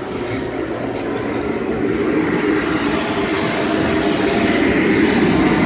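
Steady mechanical rumble that grows slowly louder, like a running machine or engine.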